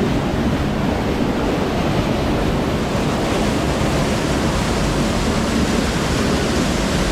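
Waterfall rushing, a steady, loud wash of falling water with no breaks.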